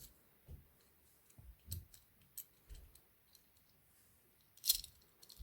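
Light, scattered clicks and taps of small diecast model car parts being handled and fitted together, with a louder cluster of clicks near the end.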